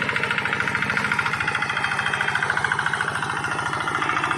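Rice-field tractor engine running steadily with a fast, even chugging beat.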